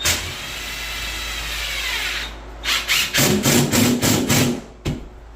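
Power drill driving a screw into concrete board: one continuous run of about two seconds with its pitch falling, then a quick series of short bursts, and a single click near the end.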